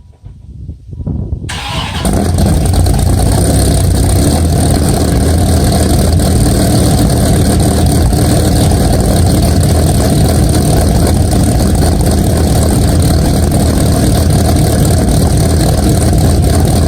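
Dodge Viper V10 engine started: a few clicks, then it fires about a second and a half in and settles into a loud, steady idle.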